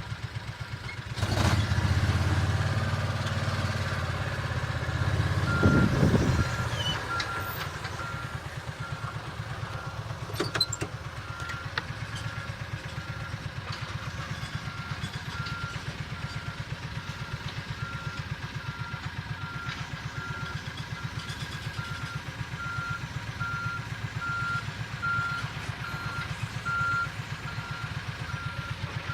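A vehicle engine runs with a louder stretch and a rise in revs in the first several seconds, then settles to a steady idle. From about six seconds in, a reversing alarm beeps at an even pace, about once a second.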